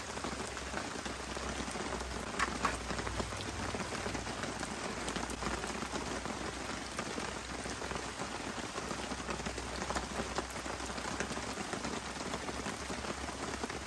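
Steady rain falling, with a few sharper drop ticks here and there, one louder about two and a half seconds in.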